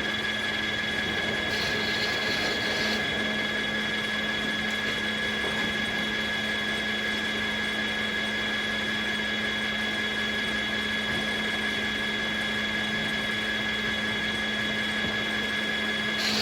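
Circular sawmill running steadily, a constant machine hum with a high steady tone over it.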